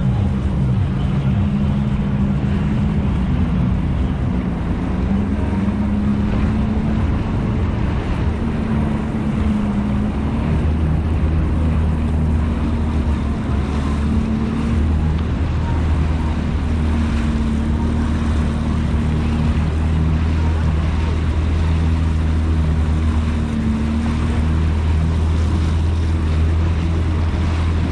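Yamaha jet ski engine running steadily, its pitch wavering only slightly, over a steady rush of noise.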